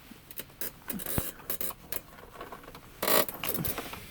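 Scattered light clicks and knocks of things being handled, with a short scrape about three seconds in.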